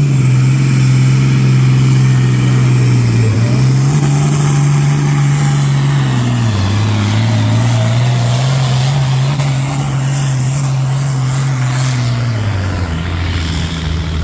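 Pulling tractor's engine running at full throttle under heavy load on the weight sled, with a high whine climbing slowly above it. The engine note sags twice and drops lower near the end as the run winds down.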